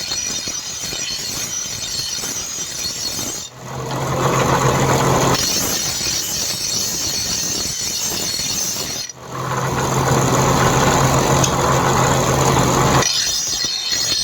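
A power tool's motor running steadily with a hissing, grinding noise. The sound changes abruptly twice, and after each change a steady low hum joins it for a few seconds.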